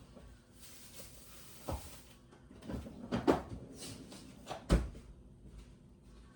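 A few sharp knocks and bumps, the loudest near the end, with a short rustling hiss early on.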